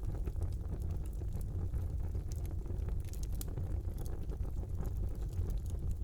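Open fire burning in a fireplace: a steady low rumble of the flames with frequent small crackles and pops, several a second.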